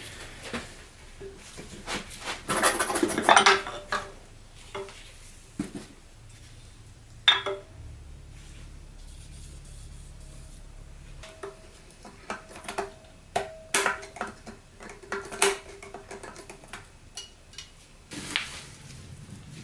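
Metal transmission parts being handled and set down: scattered clinks and knocks, with a louder clatter a few seconds in.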